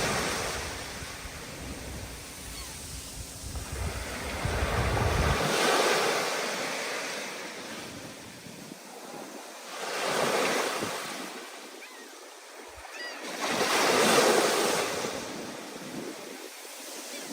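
Storm surf: waves surging in and washing back, swelling three times about four seconds apart. A low wind rumble on the microphone underlies the first few seconds, then drops out suddenly.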